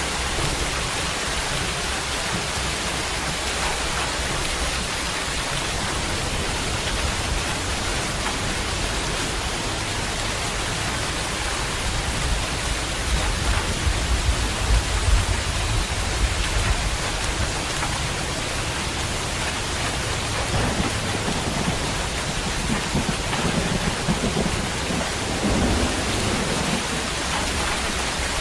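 Heavy rain falling steadily, with a low rumble of thunder that swells about halfway through.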